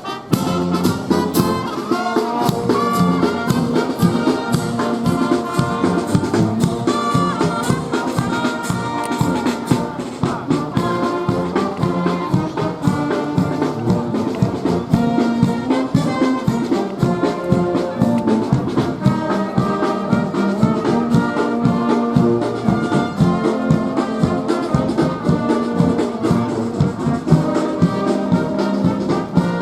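Volunteer fire brigade brass band playing, trumpets and trombones over a steady beat.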